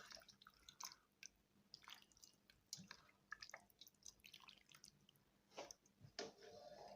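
Faint, scattered small drips and soft taps of chicken soup being ladled into a plate.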